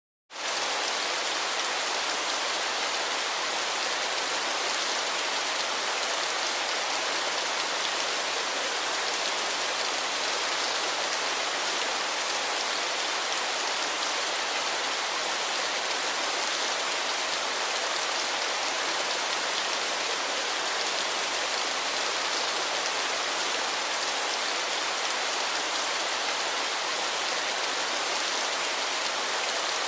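Steady, even hiss of falling water that cuts in abruptly from silence just after the start and holds without change.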